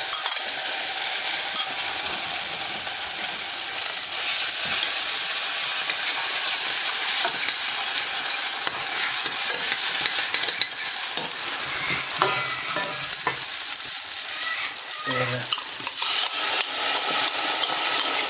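Chopped onions frying in stainless steel saucepans with a steady sizzle, while a spoon stirs and scrapes the pan with scattered clicks.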